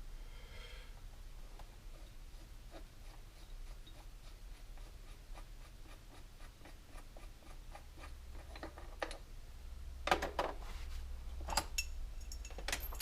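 Small metal parts and tools being handled: faint scattered clicks and scrapes, then a few sharper metallic clinks near the end, over a low steady hum.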